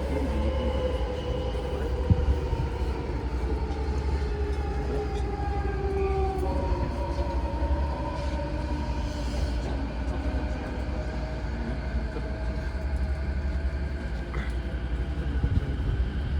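Odakyu 4000-series electric train running, its motor and inverter whine in several tones that slowly fall in pitch over a steady low rumble as the train slows, typical of braking on the approach to a station.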